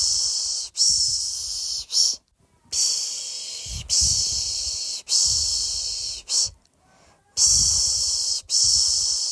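A person shushing a baby to sleep with long 'shhh' sounds, each about a second, in runs of three followed by a short one, with brief pauses between runs. Each shush starts with a low thump of breath on the microphone.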